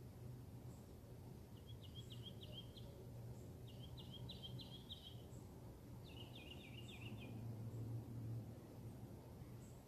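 A songbird singing three short phrases of quick repeated notes, faint, over a steady low hum.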